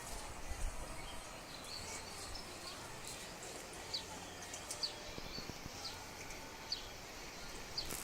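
A small bird chirping: short, high chirps about once a second in the second half. Under it is a steady, low outdoor background noise.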